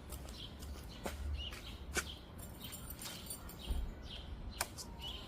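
Small birds chirping, short chirps repeating every half second or so, with a few sharp clicks and a low steady rumble underneath.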